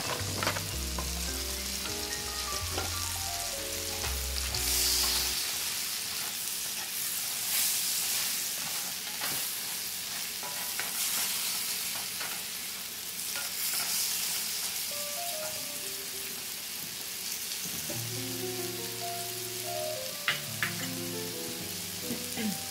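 Sliced white mushrooms sizzling in hot butter in a cast iron skillet, stirred and scraped with a wooden spatula, with a few sharp clicks as they are tipped in at the start and again near the end. Light background music with a bass line plays for the first few seconds and returns near the end.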